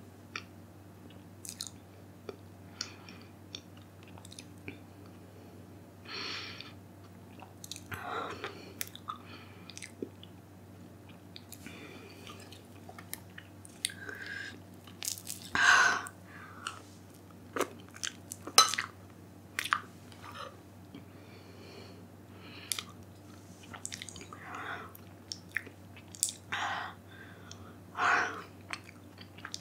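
Close-miked eating mouth sounds: chewing with many short wet clicks and smacks, broken by several louder noisy bursts of about half a second, the loudest about sixteen seconds in.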